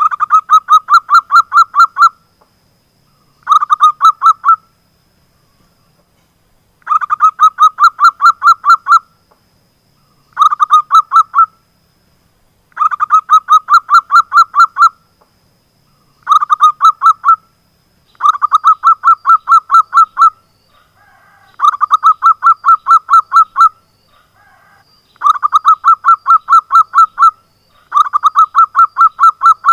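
Zebra dove (perkutut) calling loudly in rapid staccato note trains, about six notes a second. The calls come in bursts of one to two seconds with short pauses between them, over and over.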